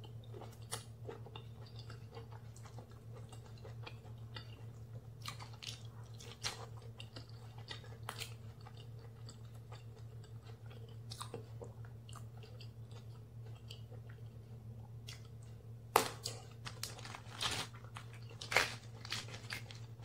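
Close-miked chewing of jumbo prawn with sambal terasi: wet mouth clicks and crunches scattered throughout, with a run of louder, sharper crunches in the last few seconds. A steady low hum sits underneath.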